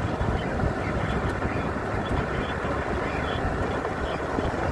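Steady road and engine noise of a car driving on winter roads, heard from inside the cabin.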